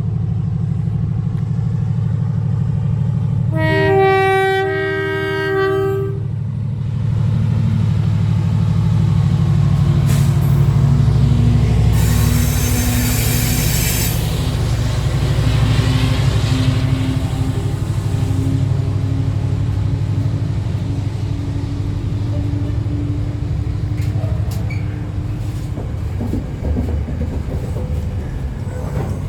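A train sounds a two-tone horn about four seconds in, then runs on with a heavy low rumble and a slowly rising tone. There is a brief harsh, high-pitched noise around twelve seconds in.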